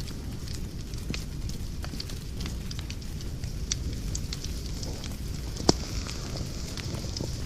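Wood fire in a fireplace crackling, with scattered small snaps over a low rumble of flames and one sharp, louder pop about three quarters of the way through.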